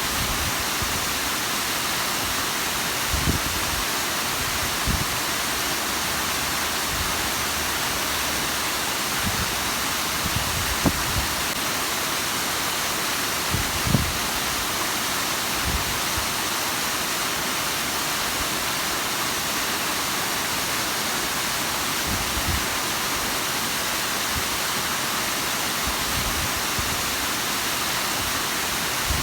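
Bigăr waterfall's water falling and splashing in a steady, even rush, with a few brief low thumps now and then.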